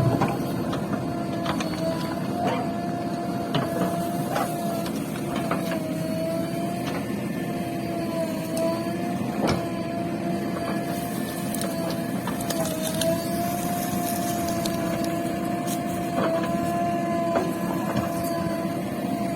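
JCB 3DX backhoe loader working, its diesel engine running steadily under a constant whine that wavers slightly in pitch, with scattered short knocks and clanks.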